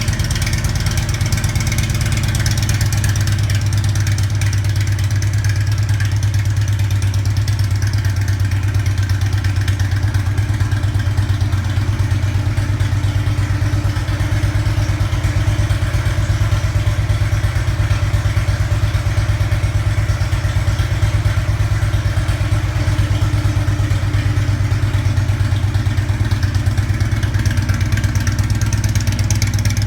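Harley-Davidson FLHT V-twin engine idling steadily through Radii 3.5-inch slip-on mufflers, a copy of Rinehart 3.5-inch mufflers, with an even, deep exhaust pulse.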